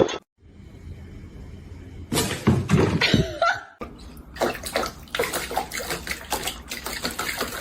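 Running water splashing, a steady hiss dense with small clicks, that begins abruptly about four seconds in after a shorter, louder burst.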